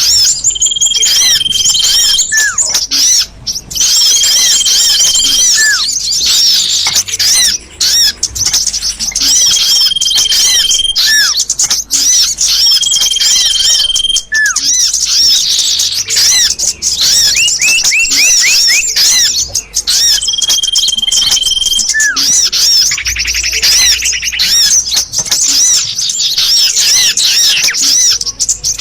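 Recorded small-bird calls played loud as a bird lure: a dense stream of high, rapid chirps, with a long steady whistle coming back several times, each followed by a short falling note.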